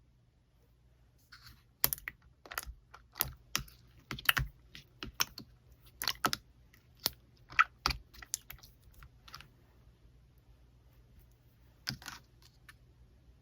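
Slime being pressed and folded by hand, giving an irregular run of crisp clicks and pops for about eight seconds, then one more near the end.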